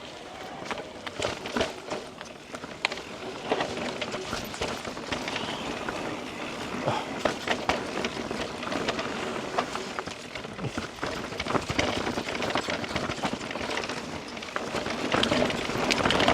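Mountain bike riding over a rooty dirt trail: tyres rolling on the ground while the chain and frame rattle, with many short knocks and clicks as the wheels hit roots.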